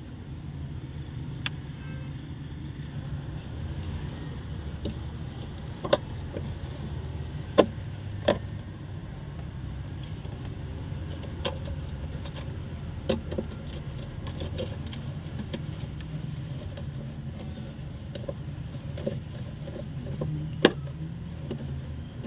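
Scattered sharp metal clinks and knocks of hand tools and parts as a battery tray and battery are refitted in a car's engine bay, over a steady low rumble.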